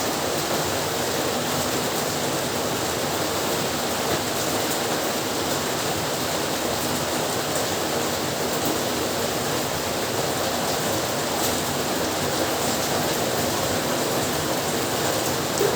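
Heavy rain falling steadily, an even, unbroken wash of noise with faint drop ticks.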